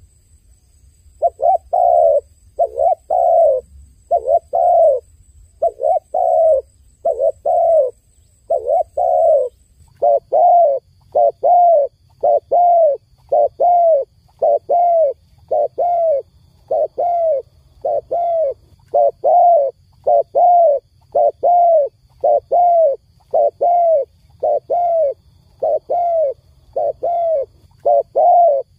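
A dove cooing: a long, quick series of short coos, close together at one and a half to two a second, beginning about a second in after a brief pause.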